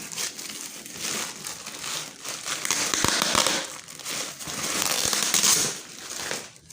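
Packaging being pulled open by hand, crinkling and rustling unevenly, loudest around the middle and again shortly before the end.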